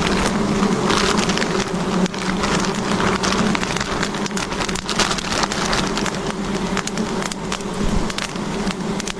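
Swarm of wild honeybees buzzing steadily around their hive, a low even drone, with many small crackles and rustles over it.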